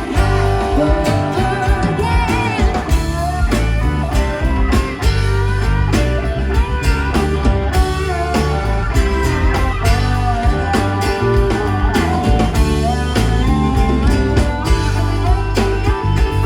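Live rock band playing an instrumental passage: a lead guitar line with bending notes over bass and drums.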